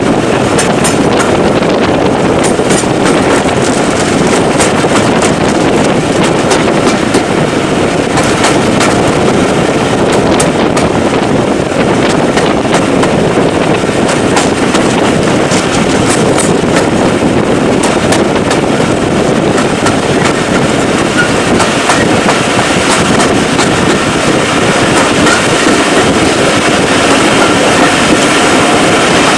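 Train running steadily along the track: a continuous loud rumble of wheels on rail, with irregular clicks and clatter over the rail joints.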